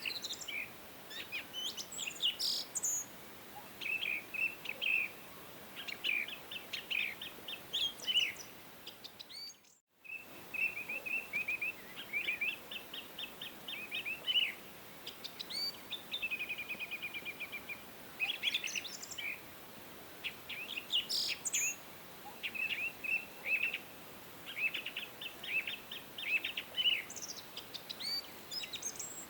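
Songbirds chirping and singing in quick repeated notes and short rapid trills over a faint steady hiss. The sound cuts out for a moment about ten seconds in.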